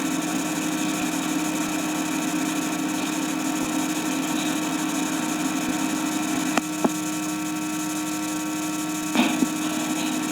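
Steady electrical hum with hiss from an old film soundtrack, with a few clicks and pops in the second half.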